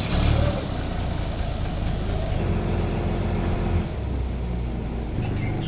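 A heavy engine running steadily at a low rumble, the kind that drives or serves a sawmill, with no cutting heard.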